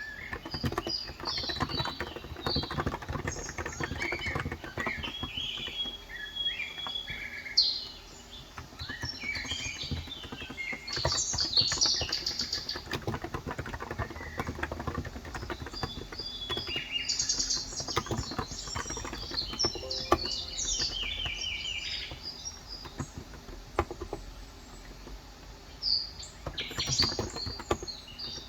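Rapid typing on a Cox Endeavour electro-capacitive (Topre-style) 35 g tenkeyless keyboard, a steady patter of soft keystrokes that pauses briefly about eight seconds in. Birds chirp over the typing throughout.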